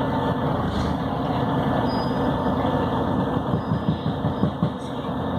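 Volvo B7RLE city bus on the move, heard from on board: its six-cylinder diesel engine running steadily under road noise, with a stretch of rapid low rattling about halfway through.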